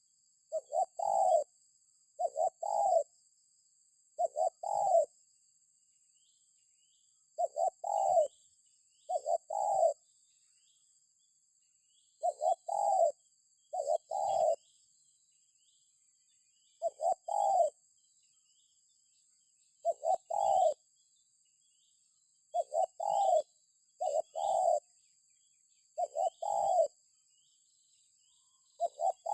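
Spotted dove (tekukur) cooing: a short phrase of two or three low coos, the last one the loudest, repeated every couple of seconds with a few longer pauses.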